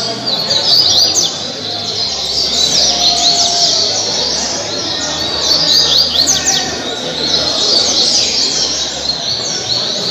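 Double-collared seedeater (coleiro) singing its caribe-type song: quick phrases of high, fast-sweeping chirps repeated one after another.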